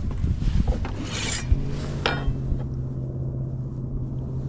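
Rubbing and light knocks from gear being handled in a bass boat, with a steady low hum starting about a second and a half in.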